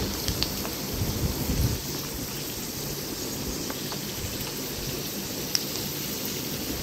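Cashews sizzling as they fry in hot oil in a kadai, a steady hiss, with a wooden spatula stirring them through the first couple of seconds. The cashews have fried to golden.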